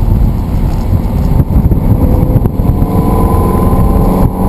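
Sports car engine under hard acceleration over a heavy rumble of road and wind noise, its note climbing from about halfway through.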